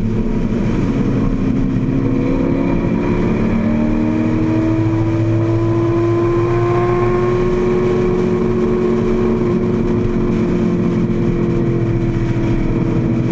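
AC Cobra's V8 racing engine pulling hard under acceleration, its note rising slowly through the first half and then holding steady at high revs. Heavy wind rush across the open cockpit runs underneath.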